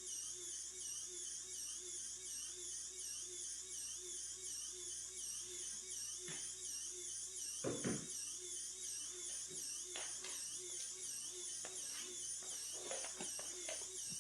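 Faint steady whine of the belt-drive coaxial micro helicopter's small electric motors, wavering evenly up and down in pitch. A few soft knocks and clicks come in the second half, the loudest about halfway through.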